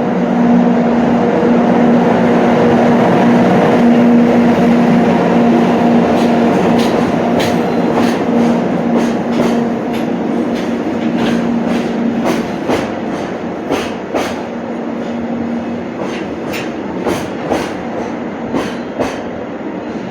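Electric commuter train moving along the platform with a steady hum that fades out about twelve seconds in, its wheels clacking over rail joints in a run of sharp clicks through the second half.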